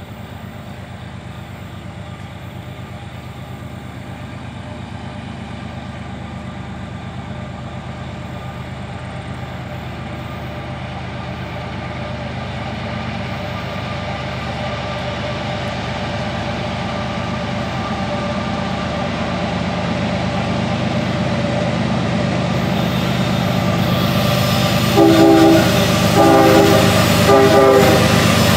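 CSX diesel freight locomotives approaching at the head of an empty autorack train, their engine rumble growing steadily louder. Near the end the lead locomotive sounds its horn in a series of short blasts.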